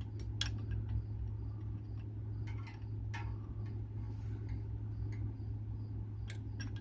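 Hand tools clinking on metal: a wrench and socket tapping against bolts and the chassis in irregular light clicks, in small clusters, over a steady low hum.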